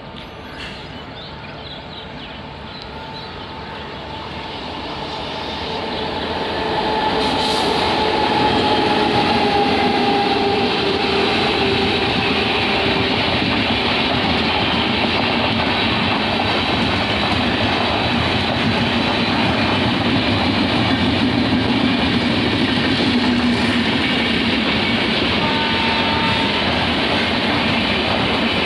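Express train hauled by a WAP-7 electric locomotive running through the station at speed without stopping. The sound builds over the first several seconds as it approaches, then holds as a steady loud rush and rattle of the LHB coaches' wheels and bogies going past. A faint drawn-out tone sinks slightly in pitch during the first seconds of the pass.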